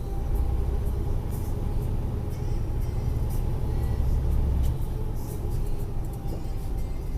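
Steady low rumble of a vehicle on the move: engine and road noise with no sudden events.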